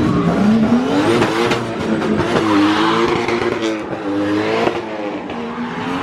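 Drift car engine revving hard, its pitch climbing and dropping several times.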